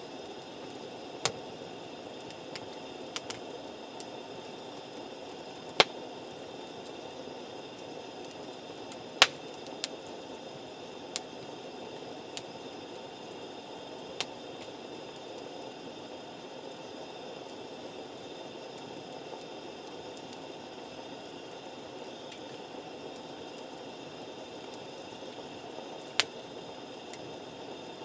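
Wood campfire burning with a steady hiss, broken by sharp pops and crackles from the burning wood, about ten in all and loudest around six and nine seconds in.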